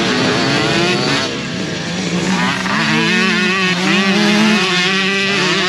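Several motocross bike engines revving at once, their pitch rising and falling as the bikes accelerate and back off.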